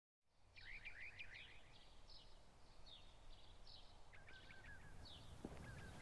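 Faint outdoor birdsong: quick chirps and slurred notes, then a run of repeated short notes, over a low background hiss. A couple of soft knocks near the end.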